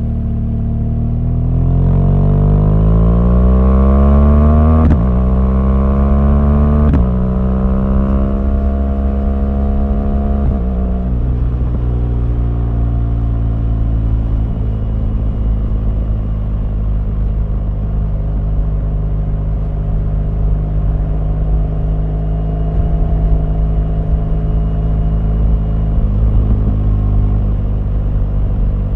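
BMW R1200GS's boxer-twin engine pulling through the gears: its note rises, drops sharply at quick upshifts about five and seven seconds in, shifts again around eleven seconds, then settles into a steady cruise.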